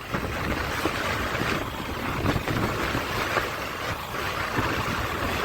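Motorcycle riding along a road: a steady mix of engine running and wind rushing over the action camera's microphone.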